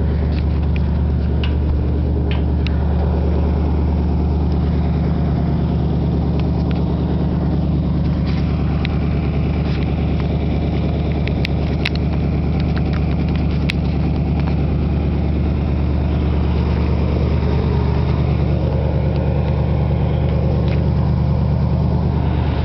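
Straight-piped Buick engine idling steadily at a constant, unchanging pitch.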